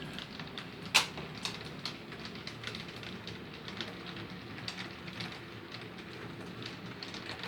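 Model train running around the layout: a steady low motor hum with frequent small clicks and crackles from the wheels on the track, and one sharper click about a second in.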